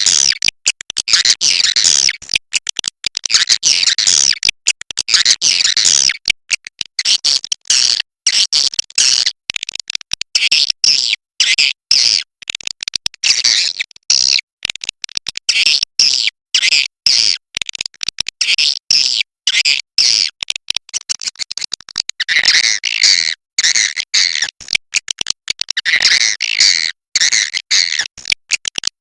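Swiftlet calls: a dense, high-pitched twittering chatter, broken by many brief gaps. A lower, stronger call joins about three-quarters of the way through.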